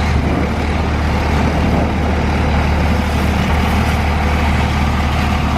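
Strong storm wind blowing, a steady low rumble on the microphone with an even hiss over it.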